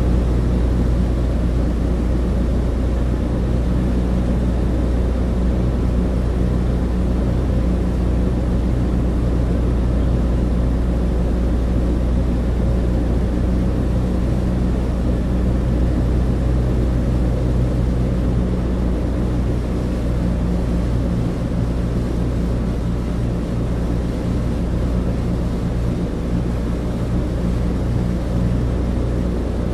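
Cabin interior of a Douglas DC-3, its twin radial piston engines and propellers making a steady, low drone that holds even throughout, with rushing noise above it.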